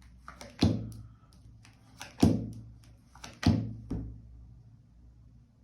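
Three dull thuds about a second and a half apart, each with a short low ring after it, with lighter clicks in between.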